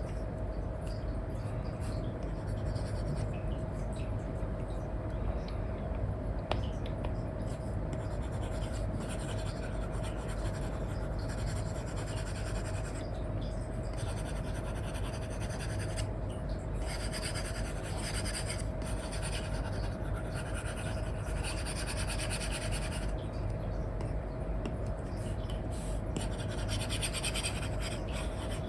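Apple Pencil 2 with an Elecom nib scratching across a paper-like screen film on an iPad, in stretches of quick colouring strokes that come and go. A steady low hum runs underneath.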